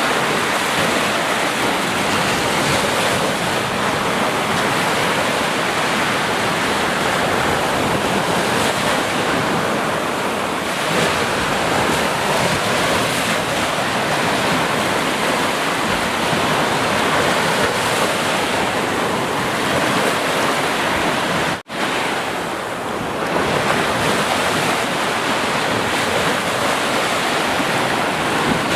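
Sea surf: waves washing in a steady, dense rush, with one sudden brief drop-out about three-quarters of the way through.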